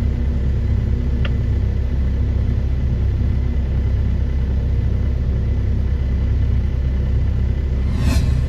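Heavy diesel engines of mining machinery (a large hydraulic excavator loading haul trucks) running steadily with a deep, even rumble. A brief, sharper noise cuts across it about eight seconds in.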